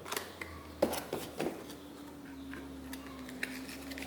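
Light clicks and knocks from handling a cordless jigsaw and its packaging, several in the first second and a half, then quieter.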